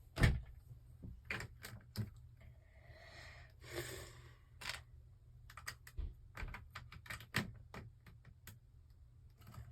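Lego bricks being handled: irregular sharp clicks and clatters of small plastic pieces, with a louder knock just after the start.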